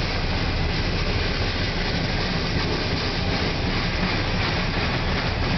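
Boxcars of a manifest freight train rolling past, with a steady, unbroken noise of steel wheels on rail.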